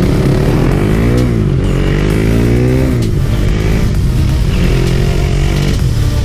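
Single-cylinder KTM motorcycle engine accelerating hard through the gears, with wind rushing past. The pitch climbs and falls back sharply at each upshift: about a second in, near the middle, and again near the end.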